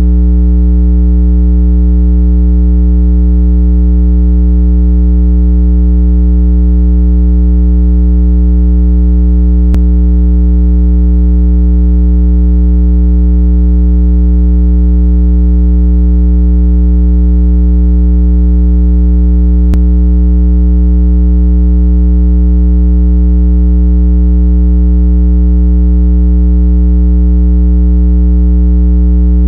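A continuous electronic water-eject tone, meant to vibrate moisture out of AirPods and speakers. It is loud and held at one low pitch with many overtones, and never changes. Two faint clicks come roughly ten seconds apart.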